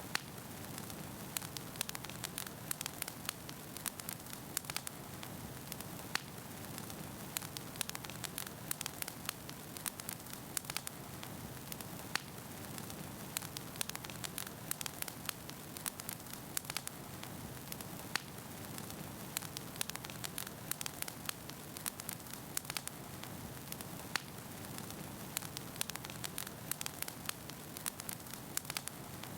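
Wood fire burning in a fireplace: a steady low hiss with irregular sharp crackles and pops from the burning logs, several a second.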